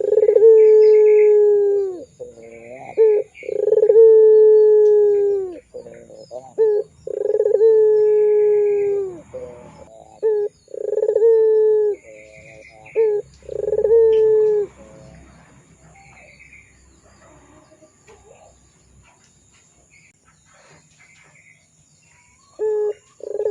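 Puter pelung dove cooing in a series of long calls, each a few short notes and then a long note that falls slightly in pitch. About five come in the first fifteen seconds, then a lull before another begins near the end. Short higher chirps sound between the calls.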